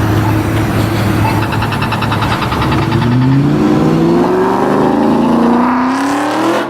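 Ford Mustang engine running loud, then accelerating with its note rising steadily in pitch over the last few seconds, cut off abruptly at the end.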